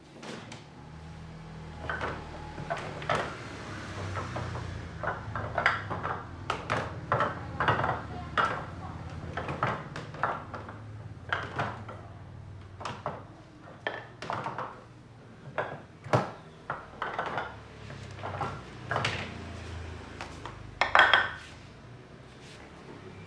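Hand tools and shoe parts clicking and knocking irregularly during shoe repair work, with a louder cluster of knocks near the end and a low steady hum underneath.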